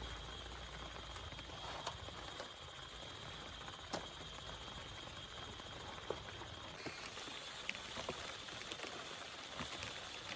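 Raindrops tapping at uneven intervals over a soft steady hiss of rain, one tap about four seconds in louder than the rest. A steady high-pitched tone runs underneath, and a second, higher tone joins about seven seconds in.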